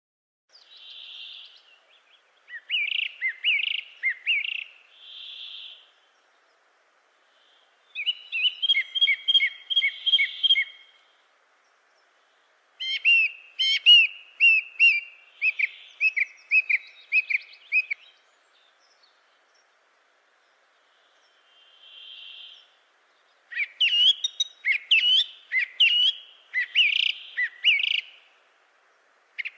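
A songbird singing in four separate phrases of quick, high chirps and whistled notes, each a few seconds long, with short silent pauses between them.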